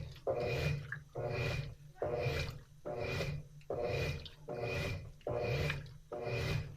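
Washing machine agitating, its motor whirring and the water swishing in a regular surge a little under once a second as the drum or agitator swings back and forth.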